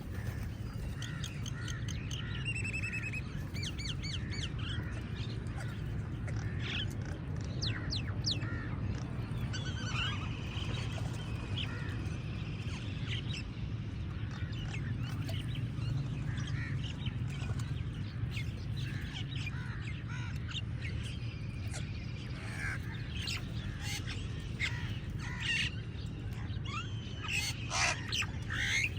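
A flock of crows cawing, many short calls overlapping throughout, with other birds chirping, over a steady low background rumble.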